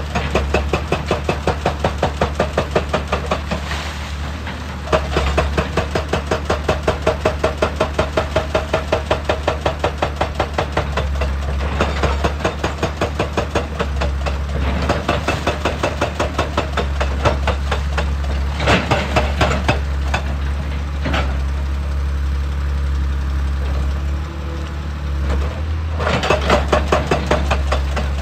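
Excavator's diesel engine running under a rapid, even hammering of about four blows a second, as from a hydraulic rock breaker striking rock. The hammering comes in long runs, gives way to scattered single knocks for a stretch in the middle, and starts again near the end.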